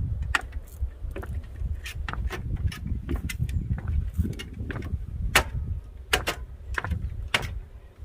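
Walking on a forest path: a rumble on the microphone with irregular sharp clicks and snaps of footsteps and twigs underfoot, one louder snap about five seconds in.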